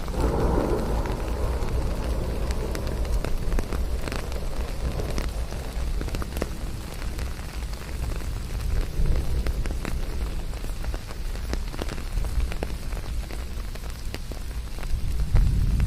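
Steady rain falling, with many separate drops ticking through it over a deep low rumble. It swells a little just after the start and again near the end.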